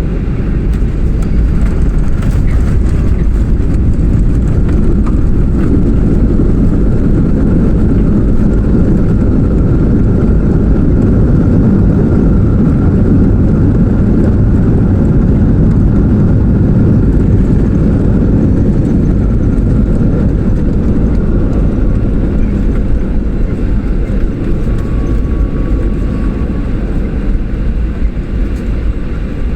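Steady loud rumble inside the passenger cabin of a Boeing 737-800 during landing: its CFM56 jet engines and the rushing air, easing off a little near the end.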